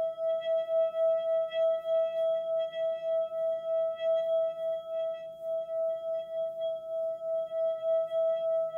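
Sustained relaxation drone: a steady ringing tone with a few higher overtones above it, wavering in loudness about three times a second.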